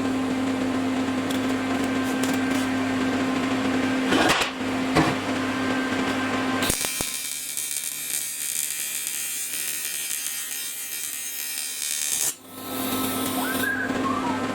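A small rotary power tool running steadily with a constant whine and hum, working the welded aluminium oil pan. About seven seconds in it changes abruptly to a hissier sound, and about twelve seconds in it switches back to the first sound.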